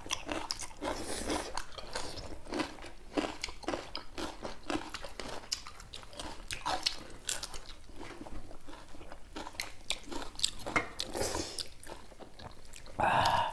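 Close-miked crunchy chewing and biting, with a steady run of crisp crunches from raw cucumber sticks and fried dried chillies. A short louder sound comes just before the end.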